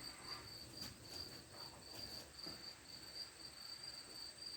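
Faint, steady high-pitched chirping that pulses a few times a second, cricket-like, with a few faint light clicks about a second in.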